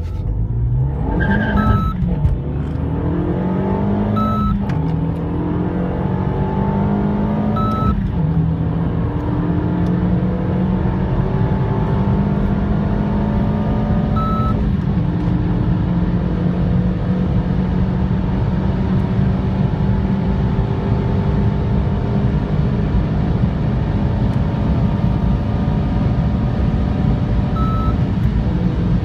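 Turbocharged hot hatch accelerating flat out through the gears. The engine note rises and drops back at each of four upshifts in the first fifteen seconds, then holds steady at high speed under strong road rumble. A short electronic beep sounds at each shift and once more near the end.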